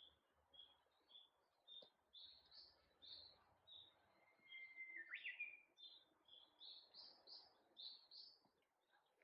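Faint songbirds calling in a forest. One bird repeats short high chirps about twice a second, some of them rising quickly. A second bird gives a held whistle that breaks into a quick sweep about five seconds in.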